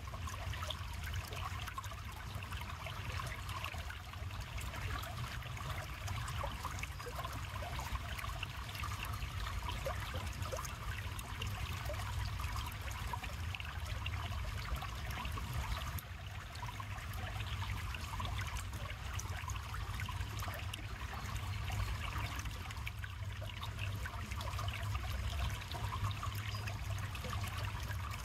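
River water flowing and trickling steadily, with a low rumble underneath.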